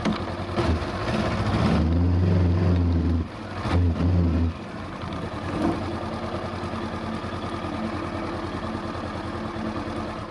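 2020 Honda CB500X's parallel-twin engine revved twice, held up for a couple of seconds each time, then dropping back to a steady idle about halfway through, with one short blip of the throttle soon after.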